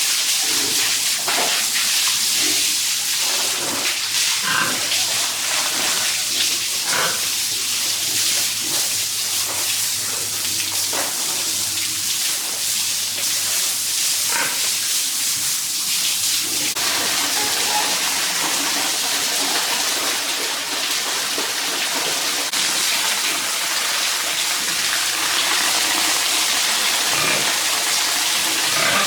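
Steady rush of water, with short pig calls rising over it several times in the first half; about halfway through the water sound grows fuller.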